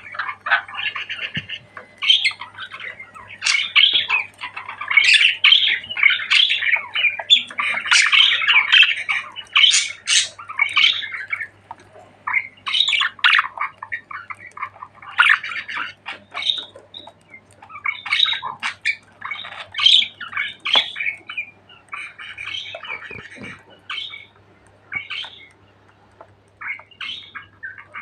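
Budgerigars chattering: a rapid, overlapping stream of warbles, chirps and squawks that is densest in the first half and thins to scattered calls later.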